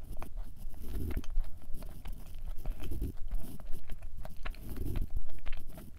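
Close-miked chewing of a thick chocolate chip cookie with the mouth closed: small wet mouth clicks and a soft low thud about every two seconds.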